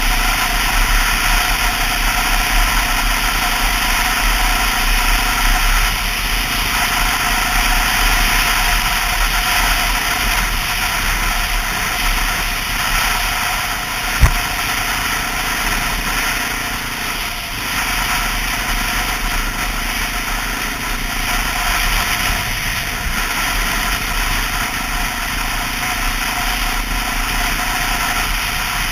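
Honda XR650L's single-cylinder four-stroke engine running steadily under way. A single sharp click comes about halfway through.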